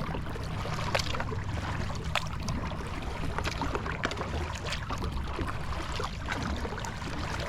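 Kayak paddle strokes in calm water: small splashes and drips running off the blade, over a steady low rumble.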